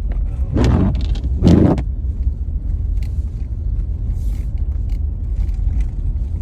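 A car driving on a snowy road, heard from inside the cabin: a steady low rumble from the road and engine, with two brief louder noises about half a second and a second and a half in.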